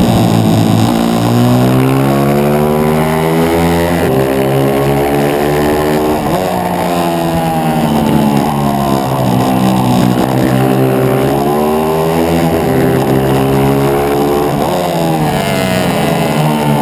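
140cc pit bike's single-cylinder four-stroke engine at racing speed, heard from on board. Its pitch climbs steadily and then drops sharply about half a dozen times: the engine being revved out and shifted or shut off and picked up again.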